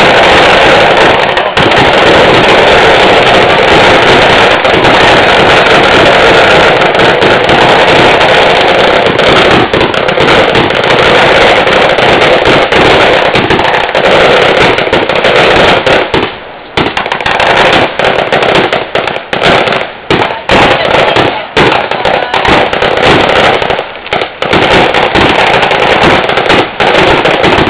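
A long run of firecrackers going off in a dense, continuous crackle, loud enough to overload the recording. About halfway through it thins into separate bangs with short gaps between them.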